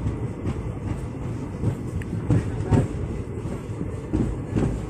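Passenger train running on the rails, heard on board: a steady low rumble with irregular knocks and clatters from the wheels and carriage.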